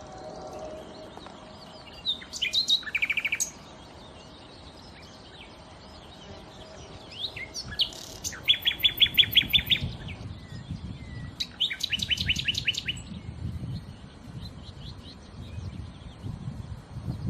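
Nightingale singing: three loud song phrases, each a rapid run of evenly repeated notes, with softer notes between them. A low rumbling noise sits under the second half.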